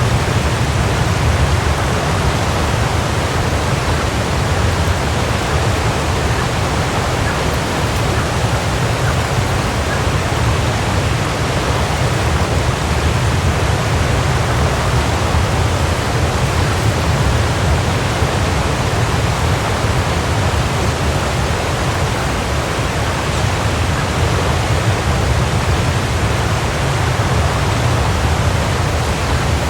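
Waterfall, water pouring and splashing in a steady, unbroken rush with a heavy low rumble.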